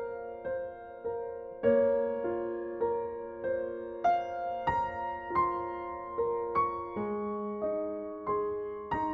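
Background music: slow, gentle solo piano, single notes struck about every half second and left to ring.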